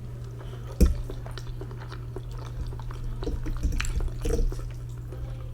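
Close-up eating sounds from a noodle, egg and sausage meal: wet chewing and mouth sounds with small clicks. There is a sharp knock about a second in, and a steady low hum underneath.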